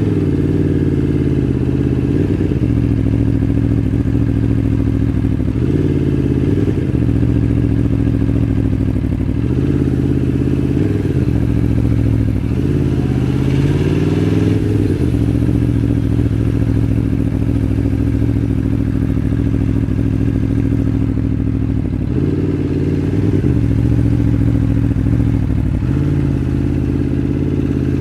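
Aprilia Tuono V4 1100 Factory's V4 engine running at low revs in slow traffic, with short throttle blips that rise and fall in pitch several times.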